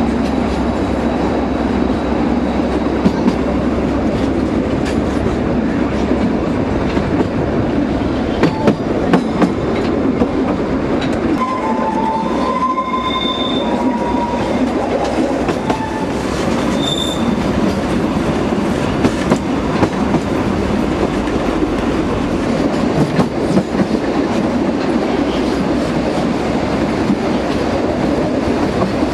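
Narrow-gauge (760 mm) train running steadily, its wheels clicking over the rail joints, with brief high wheel squeals a few times around the middle.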